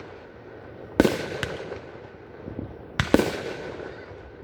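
Fireworks bursting: a sharp bang about a second in, then two bangs close together about three seconds in, each followed by a smaller crack and a trailing echo.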